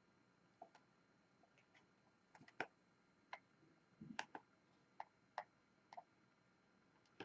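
Faint, sharp taps and clicks of a diamond painting drill pen pressing drills onto the sticky canvas, about a dozen at an irregular pace, with a duller thump about four seconds in.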